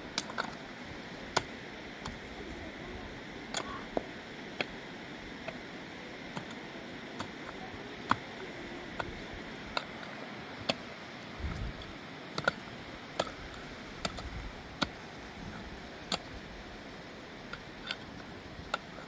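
Steady rain hiss with irregular sharp clicks, roughly one or two a second.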